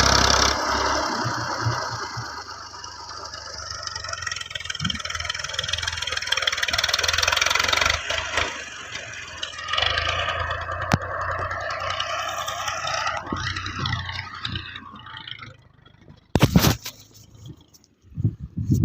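Massey Ferguson 240 tractor's diesel engine running. Its sound swells and eases twice, then dies away, with a few sharp knocks near the end.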